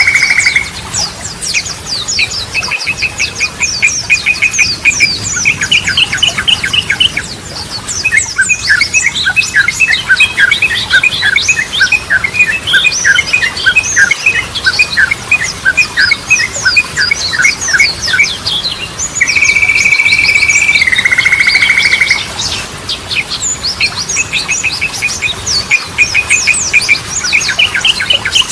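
Yellow-vented bulbul (trucukan) singing: dense, fast high chirps and rattling trills. About nineteen seconds in comes a long steady note lasting about two seconds, which drops lower partway through.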